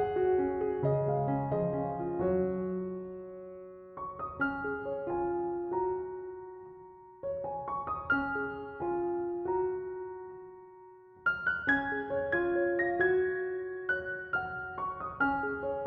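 Slow, calm solo piano music: gentle phrases of a few notes, each sounding and fading, with new phrases starting about every three to four seconds.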